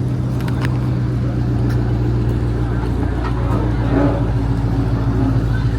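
Car engine idling steadily, with faint voices around the middle.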